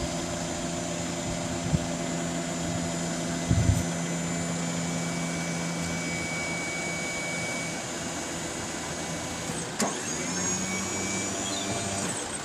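An engine running steadily at an even speed, a low constant hum, with a slight change in its note near the end.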